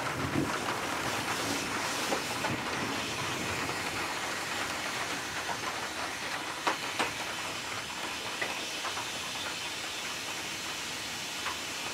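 Heavy summer rain falling steadily as an even hiss, with a few sharper taps of drops landing close by around the middle.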